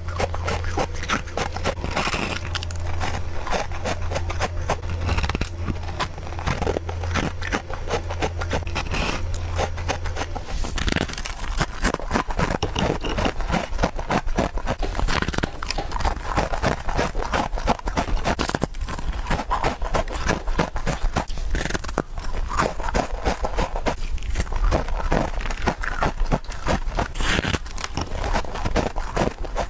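Fast, close-up biting and crunching of freezer frost and ice, a dense run of crisp crunches and crackles. A steady low hum underneath stops about ten seconds in.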